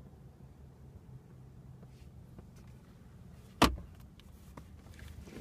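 A single sharp click about three and a half seconds in, from a fitting in the rear centre armrest of the car being handled, over a low steady hum in the car's cabin.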